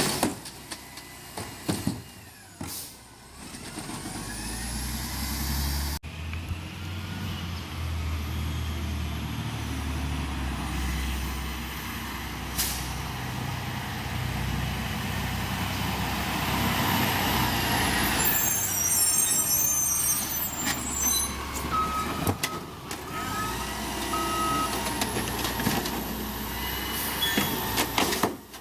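Recycling truck running with a low engine rumble and a whine that rises and falls, with an air-brake hiss. A crackling burst comes about two-thirds of the way through, and a short broken run of back-up beeps follows it.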